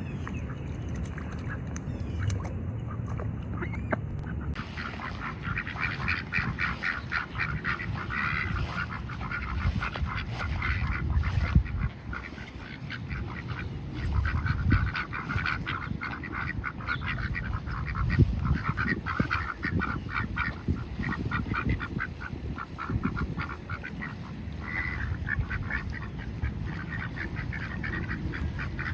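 Ducks quacking and chattering, many rapid calls overlapping, starting about four seconds in, over a low rumble.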